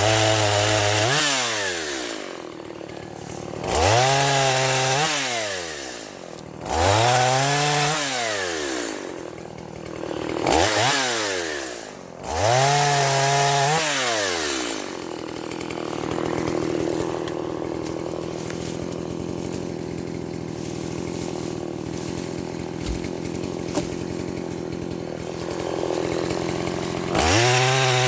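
Stihl MS170 two-stroke chainsaw being throttled up and let back down several times in a row, each rev rising and then falling away. Then it runs steadily at a lower pitch for about ten seconds before revving up again near the end.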